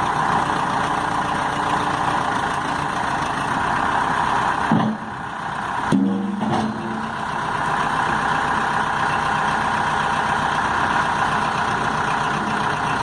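Case 580L loader backhoe's four-cylinder diesel engine idling steadily, with a brief dip and two short knocks about five and six seconds in.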